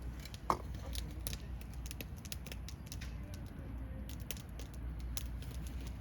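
Wood campfire crackling: irregular sharp pops and snaps, one louder snap about half a second in, over a steady low rumble.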